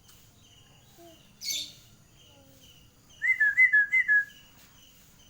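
Zebra dove (perkutut) singing a quick run of about five short cooing notes, each dipping in pitch, a little past the middle. A brief sharp chirp comes earlier, and faint repeated chirps sound throughout.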